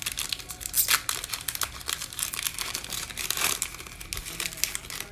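Trading card pack wrapper crinkling and tearing as it is opened and handled, in irregular crackles with louder spells about a second in and again after three seconds.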